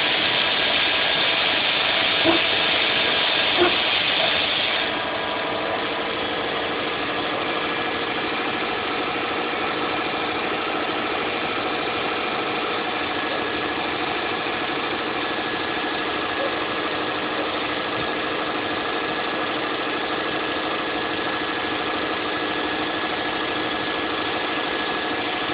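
Saab 9-2X Aero's turbocharged flat-four idling steadily on a cold start, still at its raised warm-up idle and not yet settled to normal idle. A hissing layer stops about five seconds in and the sound drops slightly in level.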